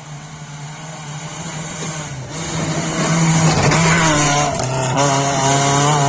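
Rally car engine running at high revs, growing louder over the first three seconds as it approaches, then staying loud and fairly steady in pitch.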